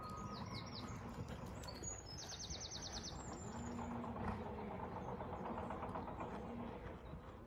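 Small birds singing outdoors: a few quick high chirps at the start and a fast, even trill about two seconds in, over a steady low rumble of wind noise.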